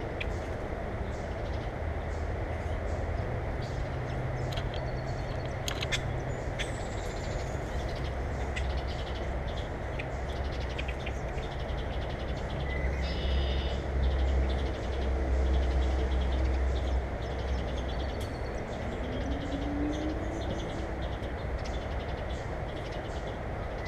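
Birds calling over a steady low rumble, with a few sharp clicks; the clearest call, a harsh stacked call, comes a little past halfway.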